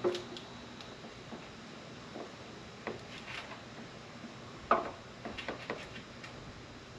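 Scattered light clicks and knocks of small parts being handled, the loudest almost five seconds in, over a low steady hum.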